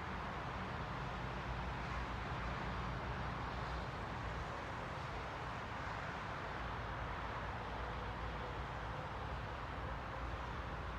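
Steady rushing ambient noise with a low rumble underneath and no distinct events; a faint steady tone comes in about halfway through.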